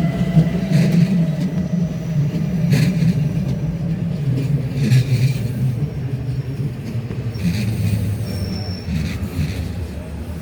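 A long train rolling past on the rails: a steady wheel-on-rail rumble with irregular clacks, a brief faint squeal about eight seconds in, and the sound slowly fading toward the end.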